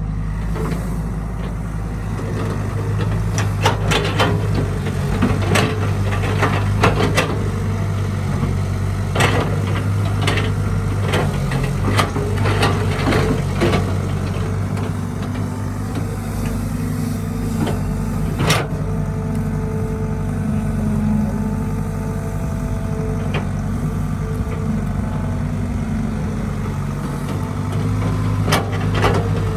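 Heavy diesel engine of a Caterpillar 312B excavator running steadily, with scattered sharp knocks and clanks through most of the stretch.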